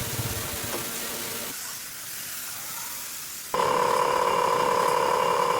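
A soft hiss, then about two-thirds of the way in a small electric motor starts suddenly and runs with a steady buzzing whir.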